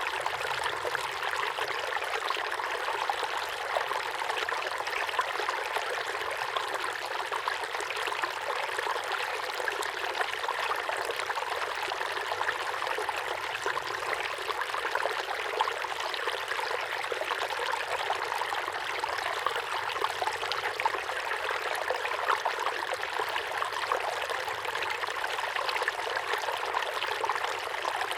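A small waterfall pouring steadily into a pond, an even splashing trickle with no deep rumble.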